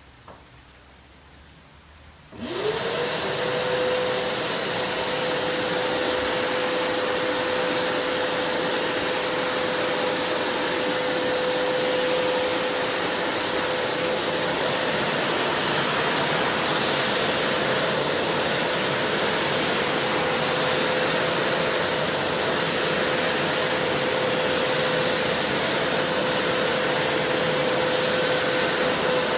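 Kärcher WD 4.200 wet-and-dry vacuum cleaner switched on about two seconds in, its motor spinning up quickly and then running at a steady high whine.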